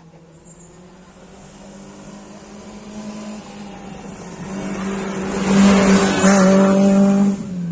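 Rally car engine approaching at speed, growing steadily louder and passing close by about two-thirds of the way in with a rush of noise, then dropping away suddenly.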